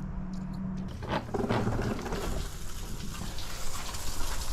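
Water rushing and churning around a running Mercury two-stroke outboard; a steady low hum gives way to a louder, even rush about a second in.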